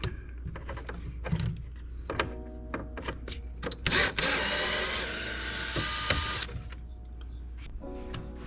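Clicks and clinks of tools and metal parts, with a small handheld power driver running for about two and a half seconds from about four seconds in, backing out bolts.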